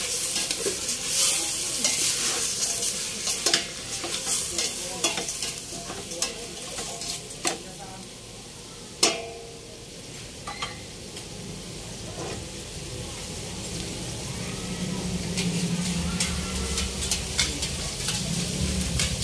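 Beef tripe and innards sizzling as they sauté in a stainless steel pot, with a metal spoon stirring and clicking against the pot through the first half. A sharp metal knock comes about nine seconds in, after which the sizzling carries on more quietly.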